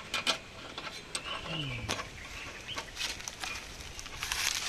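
Scattered clicks and taps of tools loosening a rusted exhaust mounting bolt on a motorcycle, with a brief low sound falling in pitch about a second and a half in.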